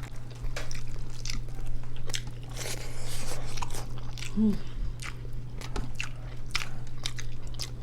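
Close-miked eating sounds: a person biting and chewing braised pork adobo, with many irregular short wet clicks and smacks of the mouth. A steady low electrical hum runs underneath.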